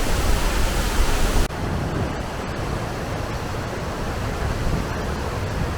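Steady roar of a large waterfall heard close up in its spray. About a second and a half in it changes abruptly to a duller, slightly quieter rush.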